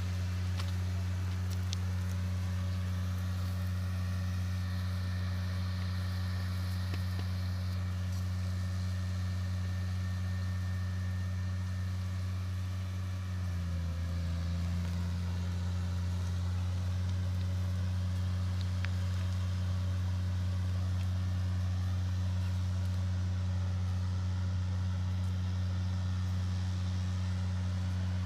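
Large diesel engine running steadily with a deep hum. About halfway through, its note deepens and it grows slightly louder.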